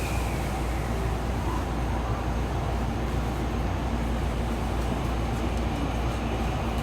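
Steady low hum and noise of a JR West 207 series electric commuter train standing at a station platform with its onboard equipment running.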